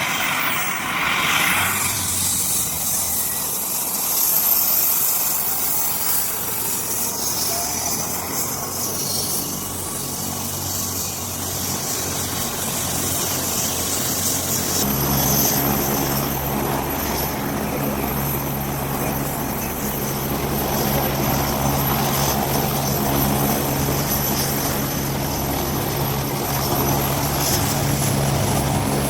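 Helicopter running, a steady rotor and engine noise. About halfway through the sound changes abruptly and a steadier low hum takes over.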